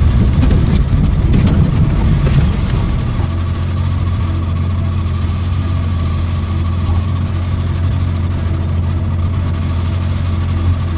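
A steady, low engine hum at a constant pitch, rougher and more mixed for about the first three seconds.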